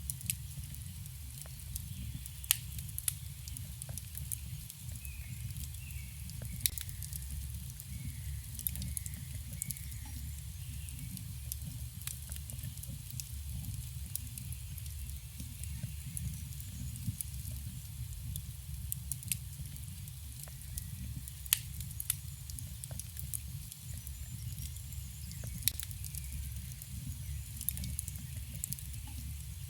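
Campfire burning: wood crackling, with sharp pops and snaps scattered irregularly over a steady low rumble. Faint bird chirps sound a few seconds in.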